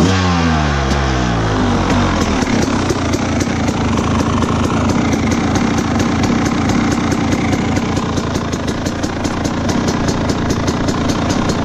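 2017 Husqvarna TE300's two-stroke engine dropping from a rev in the first second or two, then idling steadily.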